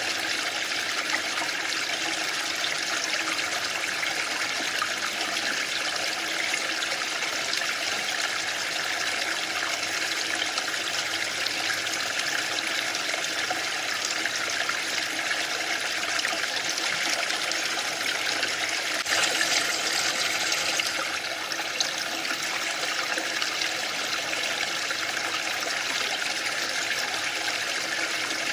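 Waterfall: steady rushing water with a dense, even hiss, swelling briefly about two-thirds of the way through.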